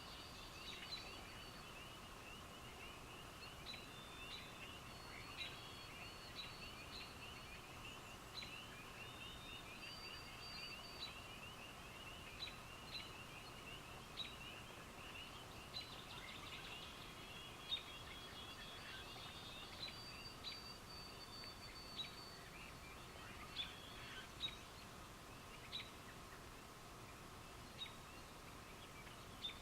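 Faint outdoor night chorus of calling animals: a dense run of rapid high chirps that thins out about halfway through, with scattered short higher peeps and a steady faint hum beneath.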